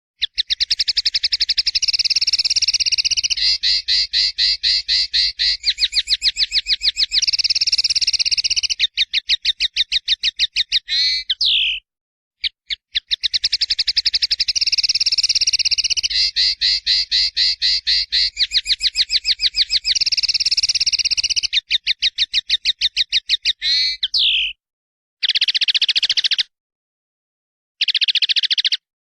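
Caged songbird singing a loud song of very rapid, buzzy trills, each held for a second or two, broken by short clean pauses.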